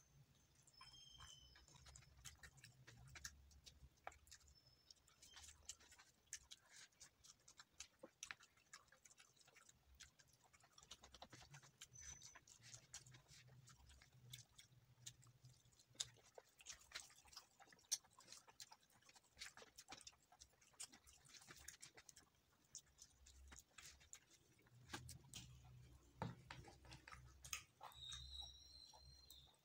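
Faint eating sounds of a man chewing rice and chicken eaten by hand: scattered soft mouth clicks and smacks. Near the end there is a brief squeaky scrape of a spoon in a plastic gravy bowl.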